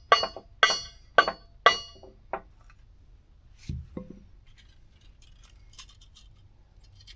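Hammer tapping a steel wood-splitter wedge to nudge it into position: five sharp, ringing metal strikes about half a second apart, then a duller knock and faint scraping of metal.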